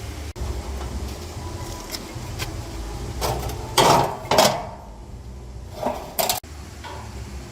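A few sharp metallic clanks and knocks, the loudest two close together about halfway through and two lighter ones later, over a steady low rumble.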